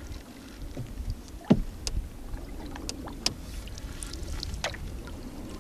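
Paddling a canoe: paddle strokes through the water over a low rumble, with a few sharp knocks against the hull.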